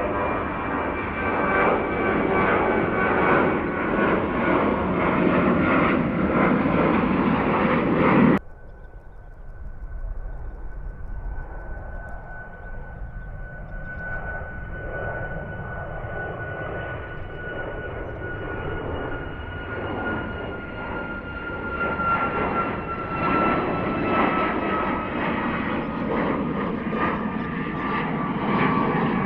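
Jet airliner engines at takeoff power. About eight seconds in, the sound cuts abruptly to a quieter departing jet, whose high engine whine slowly falls in pitch while the engine noise builds again toward the end.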